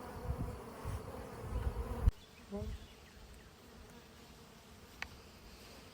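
Honeybees buzzing around a newly installed package on the hive, loud at first, then dropping abruptly to a fainter buzz about two seconds in.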